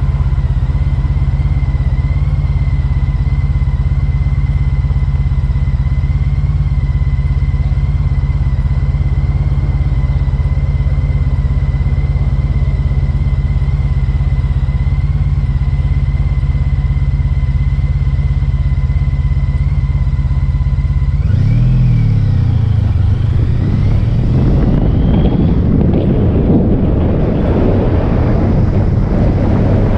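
Motorcycle engine running steadily at idle. About 21 seconds in it revs up and down and pulls away, and a rushing wind noise builds as it gathers speed.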